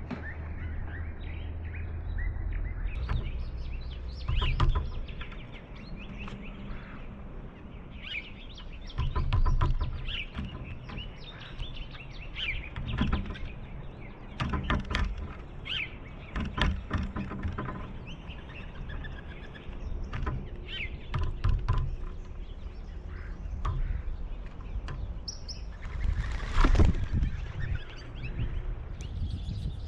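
Pileated woodpecker pecking at a suet feeder in irregular taps and knocks, with bird chirps.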